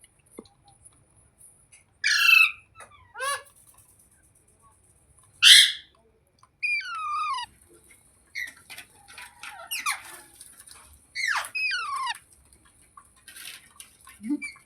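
Green ringneck parrot squawking and screeching in separate bursts, many calls sliding sharply down in pitch, with a busier run of shorter calls in the middle.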